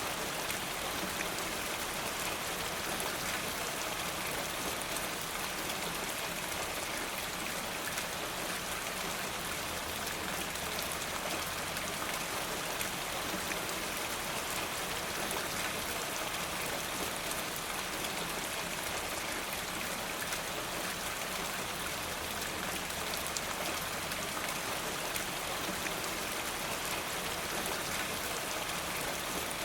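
Steady rain falling, an even dense patter of drops that holds at a constant level throughout.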